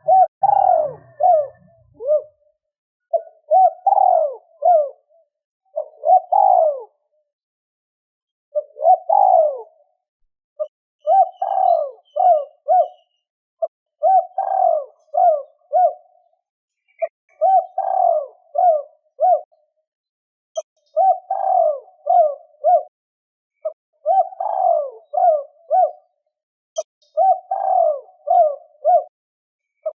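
Spotted dove (cu gáy) cooing over and over, a phrase of several coos about every three seconds. It is a 'two-ending' (2 hậu) coo, played as a decoy call to provoke wild doves into answering.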